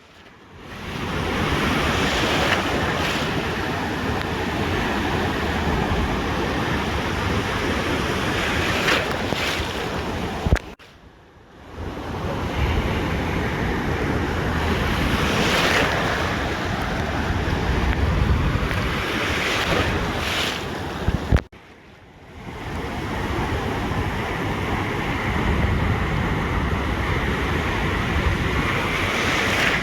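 Ocean surf washing onto a beach, swelling and ebbing every few seconds, with wind buffeting the microphone. The sound drops out briefly twice, each time right after a sharp click.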